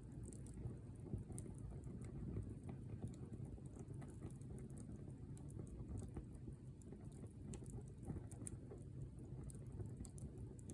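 Wood fire crackling: scattered small snaps and pops of burning wood, irregular throughout, over a low steady rumble.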